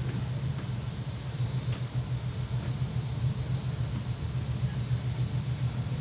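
Steady low rumble of an electric passenger train running along the track, heard from inside the carriage, with a few faint clicks.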